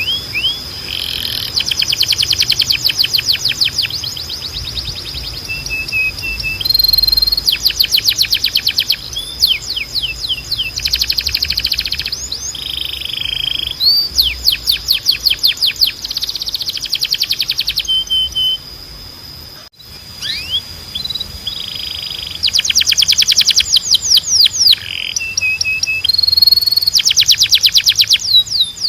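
Domestic canary singing. Fast trills and rolls alternate with short held whistled notes and rising and falling slurs. The song breaks off briefly about two-thirds of the way through.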